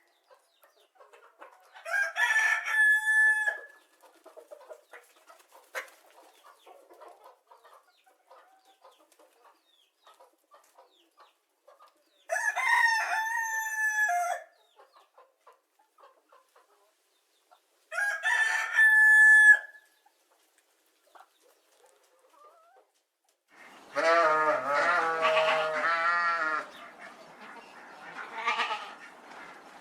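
A rooster crowing three times, each crow ending in a long held note, with faint scratchy sounds between the crows. Near the end comes a long, wavering bleat.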